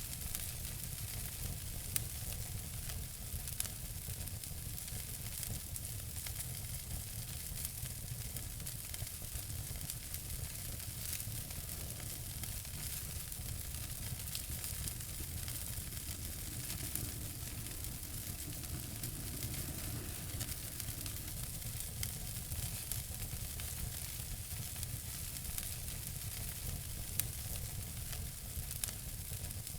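Wood fire burning in a fireplace: a steady hiss with frequent small crackles and a few sharper pops.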